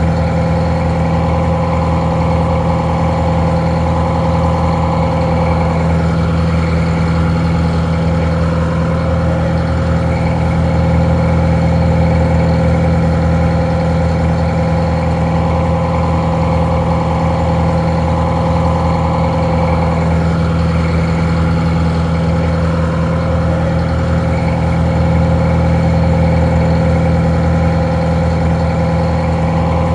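Detroit Diesel 4-71 two-stroke diesel engine idling steadily, slightly muffled.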